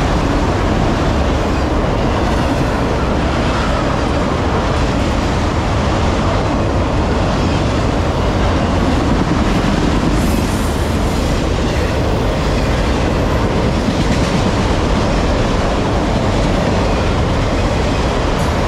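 Norfolk Southern autorack freight cars rolling past at speed at close range: a loud, steady rumble and clatter of steel wheels on rail.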